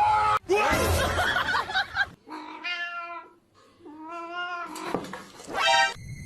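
A cat meowing: three drawn-out, wavering meows in the second half, the last one short, after a noisy stretch at the start.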